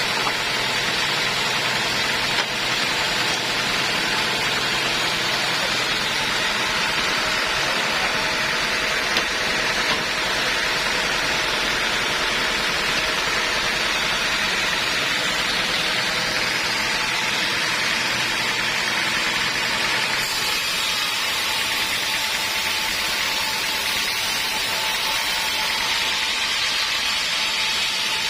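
Homemade band sawmill running steadily, a loud, even machine noise. About twenty seconds in the tone changes, turning hissier.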